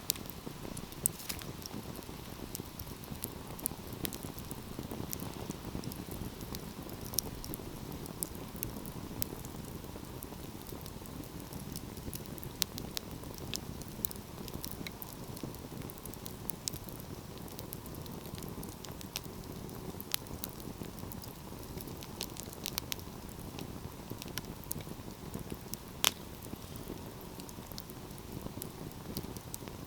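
Wood fire burning in a fireplace: a steady low rush of flames with frequent sharp crackles and pops, a louder pop about 26 seconds in.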